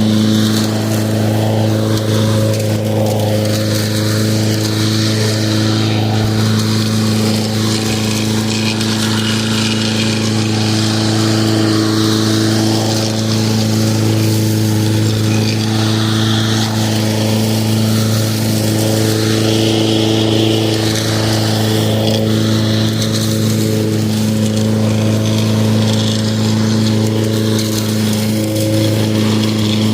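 Lawn mower running steadily at an even pitch and level.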